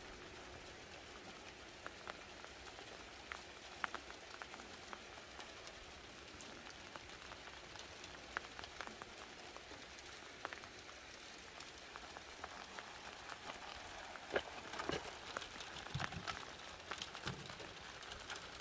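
Steady rain falling, with scattered drips and sharp taps that come more often in the last few seconds.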